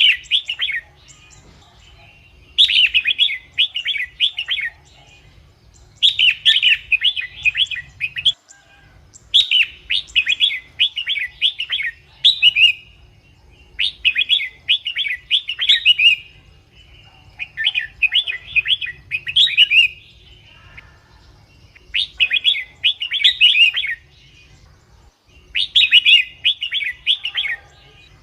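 Red-whiskered bulbul singing: short, quick, chattering song phrases repeated about every three and a half seconds, eight times, with brief pauses between. This is the bulbul song used as a lure call or to get caged bulbuls excited.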